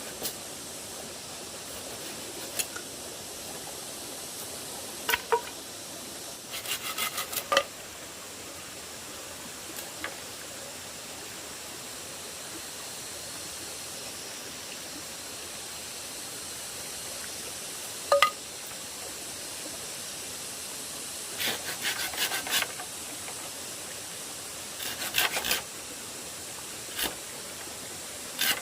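Scattered sharp knocks and clicks over a steady hiss. Some come singly, others in quick runs of several, and a few carry a brief ringing tone.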